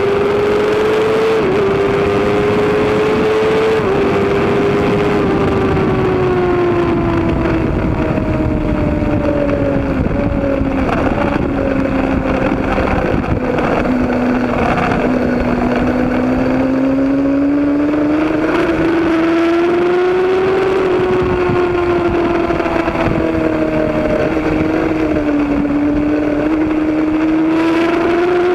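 Racing motorcycle engine running hard at high revs. It shifts up twice in the first few seconds, the note dropping sharply each time, then slowly falls and rises again as the throttle is eased and opened through the corners.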